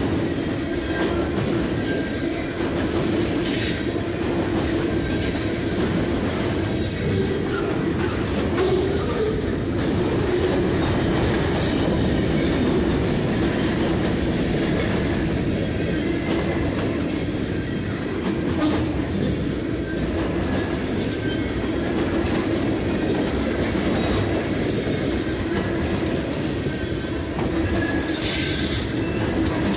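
Loaded freight cars rolling past close by: a steady rumble of steel wheels on rail, with a regular clickety-clack as each car's trucks cross the rail joints. Now and then there is a brief high wheel squeal.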